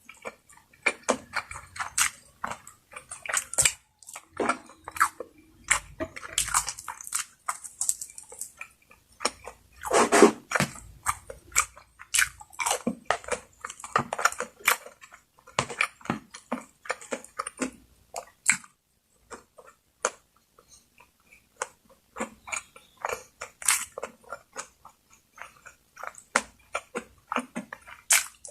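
Close-miked eating: a person chewing and biting food with mouth-close wet clicks and crunches, pausing briefly about two-thirds of the way through.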